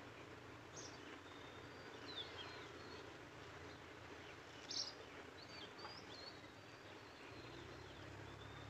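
Faint outdoor background hiss with scattered short, high bird chirps, one a little louder a little before the five-second mark.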